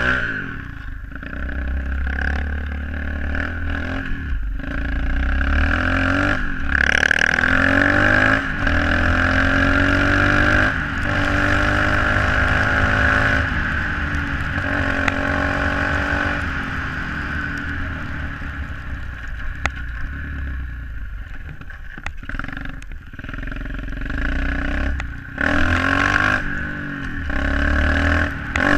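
SSR 125cc pit bike's single-cylinder four-stroke engine being ridden, its revs rising and falling again and again as the throttle is worked.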